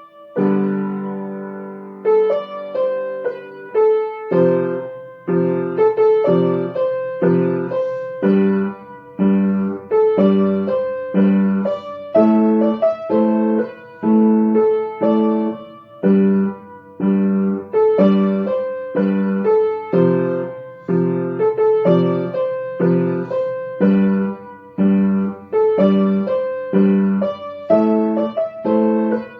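Piano played with both hands without the sustain pedal: a melody over steady left-hand chords struck about once a second, each chord dying away and cut short rather than ringing on.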